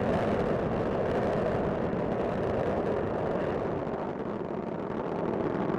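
Space Shuttle Discovery's rocket engines and solid rocket boosters during ascent, a steady, dense rumble with no break.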